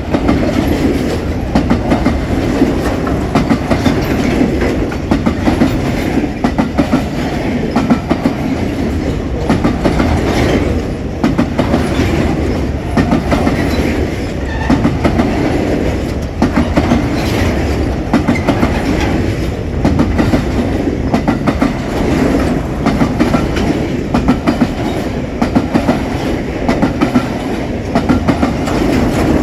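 Empty pulp wagons of a broad-gauge freight train rolling past at speed, their wheels clacking in a steady stream over the rail joints.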